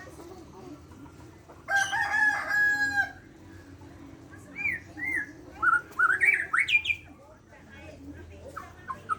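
A rooster crows once, about two seconds in, a steady-pitched call lasting over a second. Then a Bornean shama (murai batu borneo) sings a run of short whistled notes that slide up and down.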